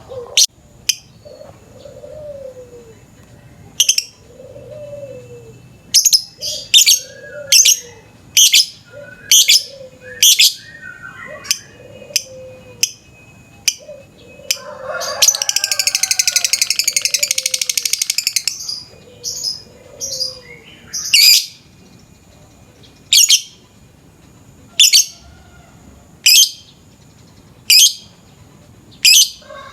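Lovebird calling: loud shrill chirps repeating, and about halfway through one long rapid trilling chatter ('ngekek') that lasts about three and a half seconds, after which the single chirps return about every second and a half.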